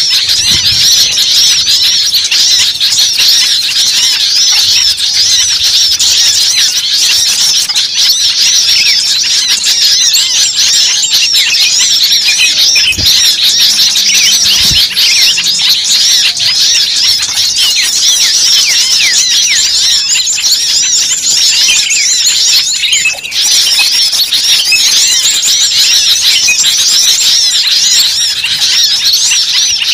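Bird-lure recording: a dense, noisy chorus of many small birds chirping and chattering over one another without a break, shrill and busy, the kind of agitated flock sound used to draw small birds in.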